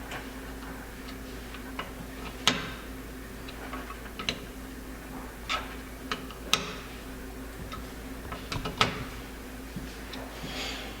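Irregular light clicks and taps of a screwdriver and small metal parts as screws are tightened evenly into a single-barrel carburetor's aluminum housing.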